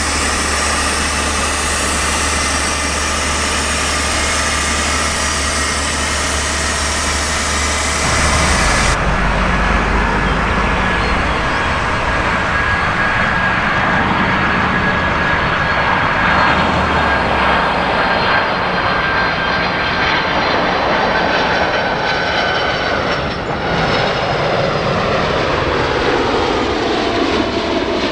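Jet airliner engines running close by. About nine seconds in the sound changes abruptly to a louder jet with a steady high whine, and near the end the engine tones fall in pitch as the aircraft passes.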